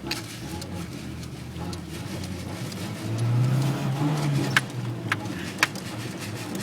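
Truck engine running, then accelerating about three seconds in, its pitch rising and falling back as it eases off, with a few sharp clicks near the end.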